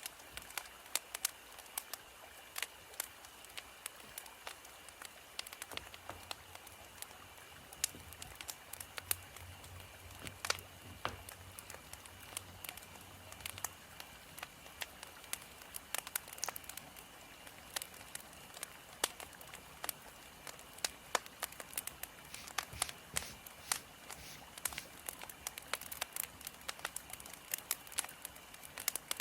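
Burning firewood crackling: irregular sharp pops and snaps, several a second, over a soft steady hiss of the fire.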